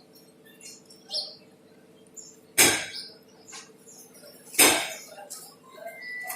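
Two hard hammer blows on metal about two seconds apart, each ringing briefly, over a faint steady hum.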